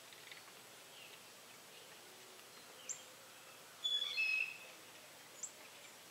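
Birds chirping: scattered short high chirps over a steady faint outdoor hiss, with a louder cluster of chirps about four seconds in.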